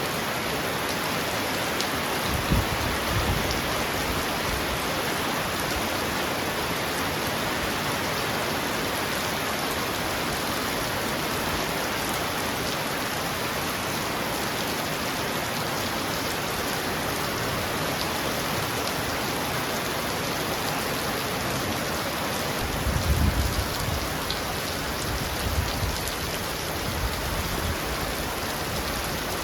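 Heavy rain pounding steadily on a roof, with a brief low rumble about two and a half seconds in and more low rumbling near the end.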